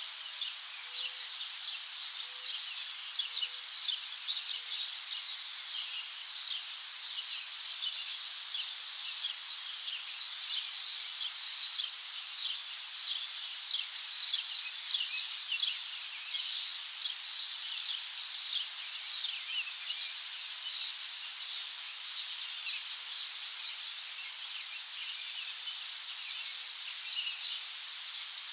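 A dense chorus of many small birds chirping at once, a continuous mass of short, high chirps overlapping with no pause.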